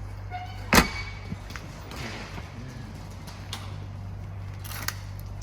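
One loud, sharp thump about a second in, followed by a few lighter clicks and knocks, over a steady low hum.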